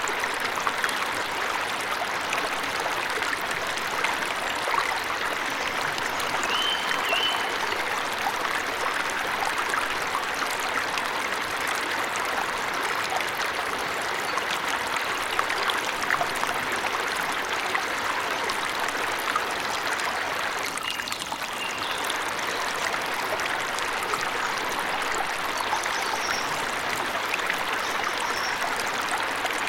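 Waterfall rushing steadily in a forest, with a few short bird chirps above it: one about seven seconds in, one around twenty seconds in and a couple near the end.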